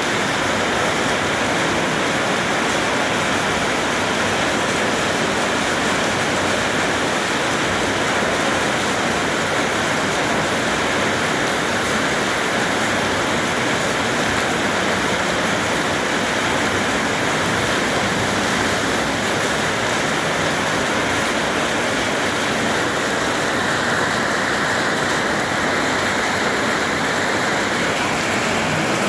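Heavy rain falling steadily, a continuous rushing hiss.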